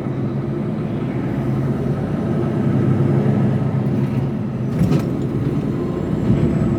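Mercedes Actros truck's diesel engine running steadily under way, a low drone heard inside the cab. A single brief knock comes about five seconds in.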